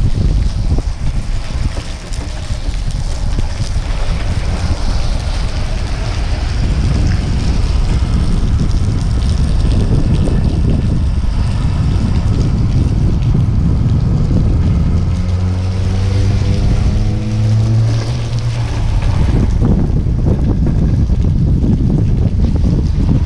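Strong storm wind buffeting the microphone in a dense, loud rumble. For about four seconds past the middle, a low pitched hum with overtones rises slightly and holds above the wind.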